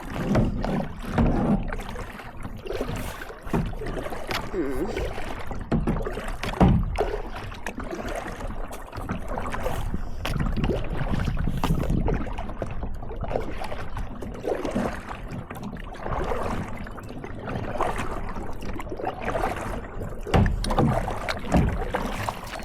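Kayak paddling on a lake: irregular paddle strokes and water splashing and sloshing against the boat, with low noise like wind on the microphone.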